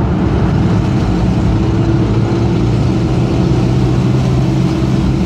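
Car engine running at a steady pitch while the car is driven, heard from inside the cabin over a constant rush of road noise.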